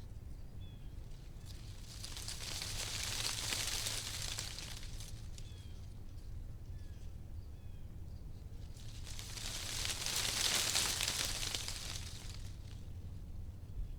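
Wind gusting through tree leaves, the rustling swelling and fading twice, about two seconds in and again around nine seconds in, over a steady low rumble.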